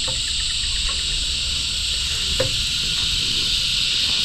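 A steady, high, buzzing insect chorus, with two light knocks, one right at the start and one about two and a half seconds in.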